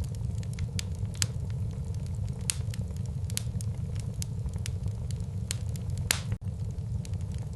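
Wood fire burning in a fireplace: a steady low rumble of the flames with frequent sharp crackles and pops, the loudest pop about six seconds in, followed by a split-second dropout.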